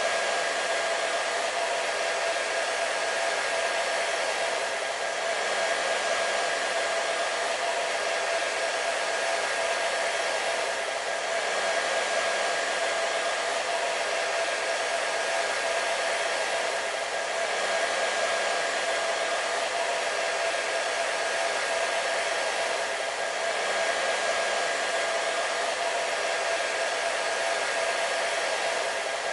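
Hair dryer running continuously, a steady rush of air with a constant motor whine through it and a slight swell in loudness every few seconds.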